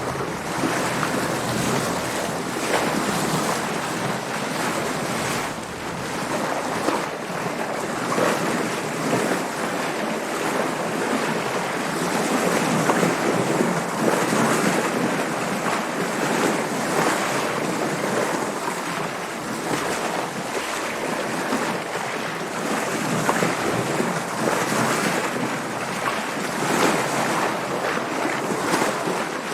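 Sea water splashing and rushing against a sailing boat's hull, with wind noise, in a steady wash that swells and eases every second or two.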